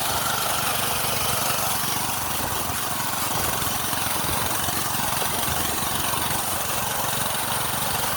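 Minibike's small gas engine running steadily, under a constant hiss of wind and road noise while riding.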